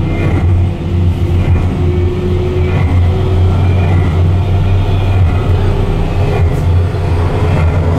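Deep, steady rumble of a simulated space-elevator ascent, the ride's sound effect for climbing into orbit, played through the lift cabin's speakers.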